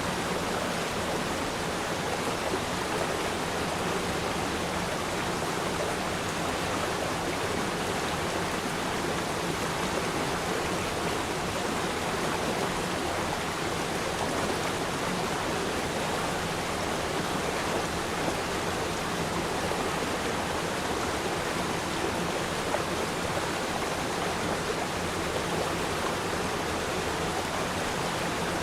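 Water of a small river or stream flowing and rushing steadily over rocks, an even continuous rush without breaks.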